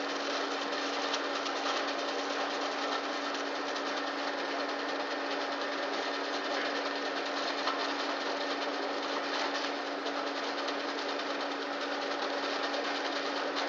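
Electric-motor-driven raffia string winding machine running steadily, a constant machine hum with one steady tone throughout.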